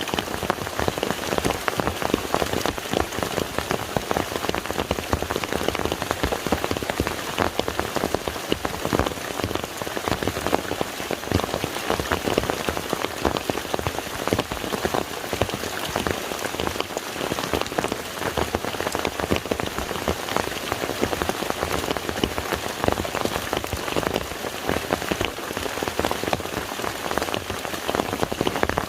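Steady rain falling on the surface of a lake, a dense stream of individual drops heard as close, irregular ticks over an even wash of noise.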